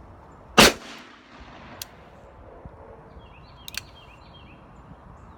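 A single .357 Magnum shot from a Smith & Wesson 686 revolver, fired single action, comes about half a second in as one loud crack with a short ringing tail. Two faint sharp clicks follow later.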